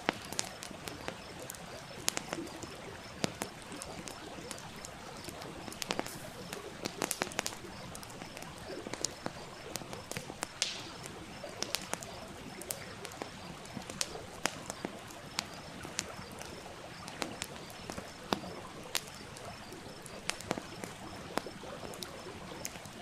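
Campfire crackling, with many sharp, irregular snaps and pops over the steady rush of a stream.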